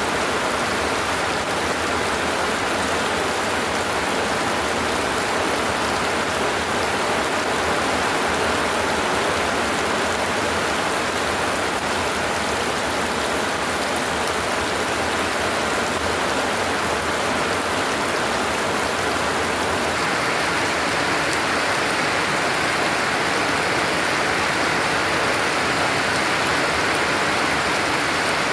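Heavy rain falling steadily, a dense even hiss of downpour on the surfaces around a hut, with a slight change in its tone about two-thirds of the way through.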